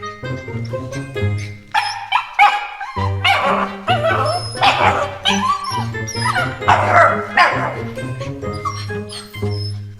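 A small dog barking and yapping in a series of sharp, excited barks over background music, from about two seconds in to about eight seconds.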